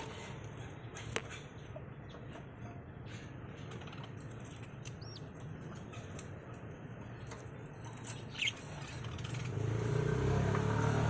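Small pet parrots giving occasional short, high chirps among light clicks and rustling, over a steady low hum that grows louder near the end.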